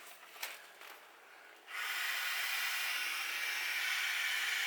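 A steady hiss of rushing air around an inflatable beach ball, starting about a second and a half in after a few faint handling rustles.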